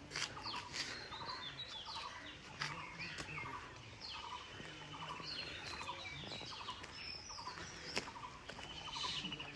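Several birds calling and chirping over and over, a mix of short down-slurred calls and quick trilled notes, with a few sharp clicks among them.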